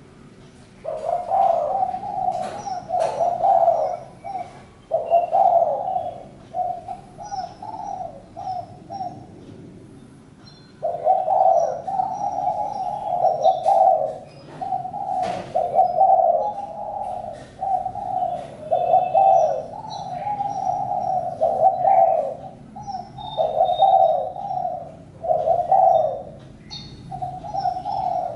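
Spotted dove cooing over and over in short, low phrases, pausing briefly about a third of the way through. Faint high chirps from small birds are also heard.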